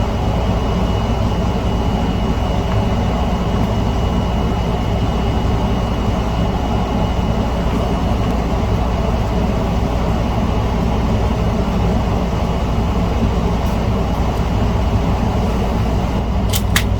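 A steady low mechanical hum with a few light clicks near the end.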